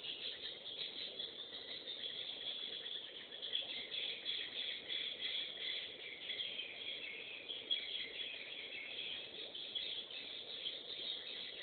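Swiftlets chirping and twittering steadily in a dense chorus of high, rapid calls, heard thinly through a CCTV camera's microphone.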